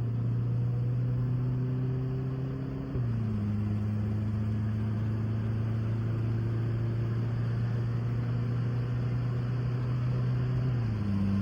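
Turbocharged Volkswagen GTI engine under hard acceleration on a timed 60 to 100 mph run. Its note climbs slowly in pitch, drops at an upshift about 3 seconds in, climbs again, and drops at a second upshift near the end.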